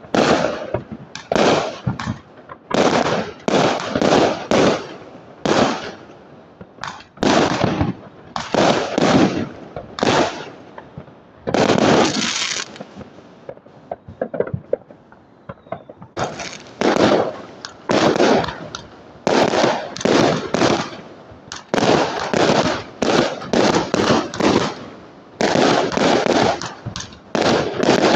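Fireworks going off in a quick series of bangs, one or two a second, each fading briefly, with a lull of a few seconds a little past halfway before the bangs start again.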